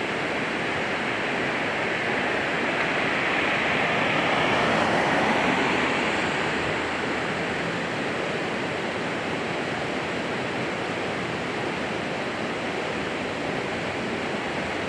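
Heavy truck passing on the highway: a steady rush of traffic and tyre noise that swells louder between about three and seven seconds in, then fades back to a steady rush.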